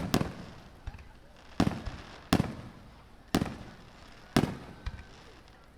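Aerial fireworks shells bursting overhead: a string of sharp booms, roughly one a second, each trailing off in a rolling echo.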